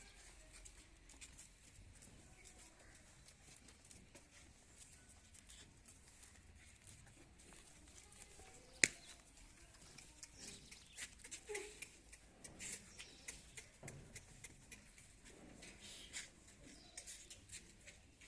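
Quiet goat-pen sounds: faint rustling and scattered small clicks of goats moving about, with one sharp click about nine seconds in.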